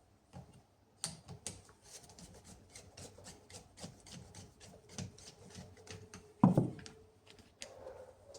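Small hard parts being handled, with a quick run of clicks and rubbing and one louder knock about six and a half seconds in.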